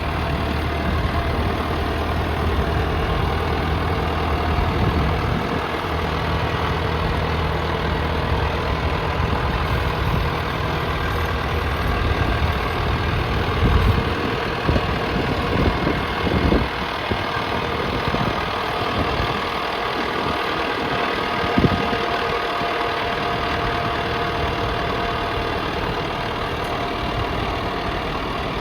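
Kubota tractor's diesel engine running steadily, with a few sharp knocks in the second half.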